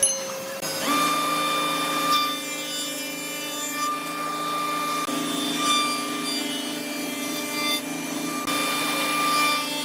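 A woodworking power machine running with a steady whine as it saws or abrades wood; the whine sets in about a second in.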